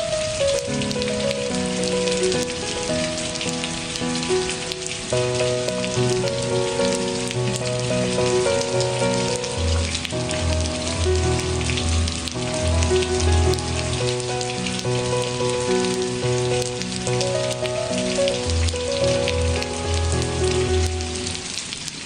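Steady rain falling, an even hiss of drops, mixed with soft instrumental music of slow held chords; a deep bass note joins about halfway through.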